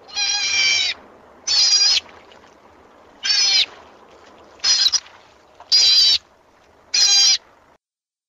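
An animal calling six times, each call a short, pitched, high cry, with gaps of about a second between calls.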